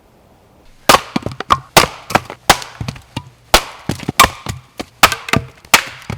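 Wood being chopped into kindling: a quick, irregular run of sharp, loud strikes, heavier blows under a second apart with lighter taps between.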